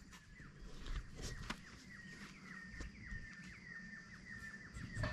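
A bird calling a fast, steady run of short descending notes, about four a second, starting about a second in.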